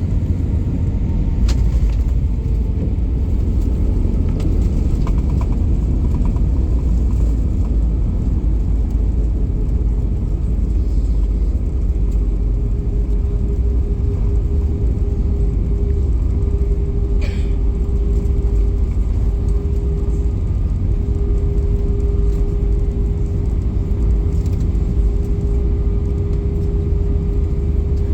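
Airliner cabin noise: a steady low rumble of the jet engines and airflow, with a droning tone that grows more prominent about halfway through.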